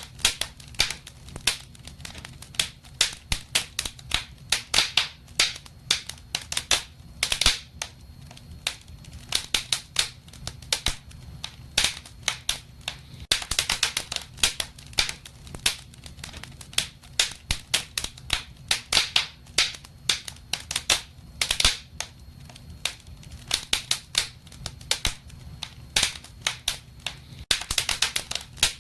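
Wood fire crackling in a fireplace: irregular sharp pops and snaps, sometimes in quick flurries, over a steady low rumble of the flames.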